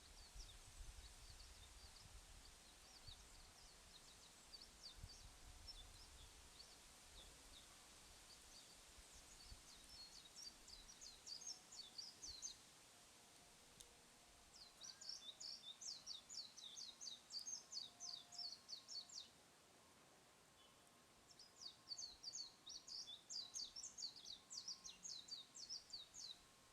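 Bird calls: rapid, high chirps repeated in three bouts of a few seconds each, about a third of the way in, around the middle and again near the end, with scattered fainter chirps at the start.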